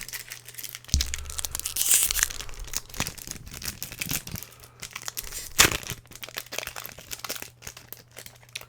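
Pokémon booster pack's foil wrapper being torn open and crinkled by hand: dense crackling throughout, loudest about two seconds in, with a sharp crinkle a little before the end.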